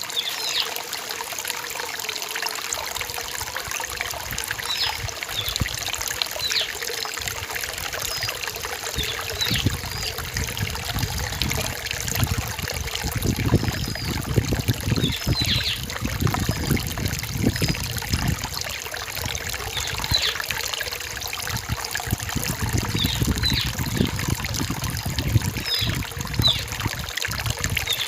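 Forest stream trickling and splashing over rocks, fuller and more gurgling from about halfway through. Short, high chirping bird calls repeat over the water throughout.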